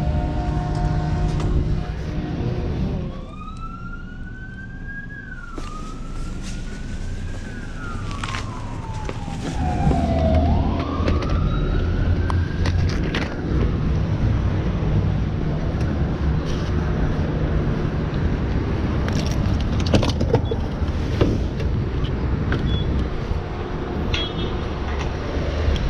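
Hawk 250 motorcycle engine running steadily, dropping away about three seconds in. Then an emergency-vehicle siren wails, rising and falling in pitch for about ten seconds, over low vehicle rumble with scattered clicks and knocks.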